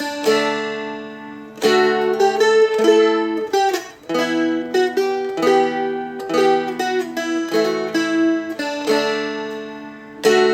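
Seagull Merlin M4, a four-string fretted dulcimer-style instrument, strummed and picked, playing a song's chords with little licks between them; each chord rings and dies away before the next is struck.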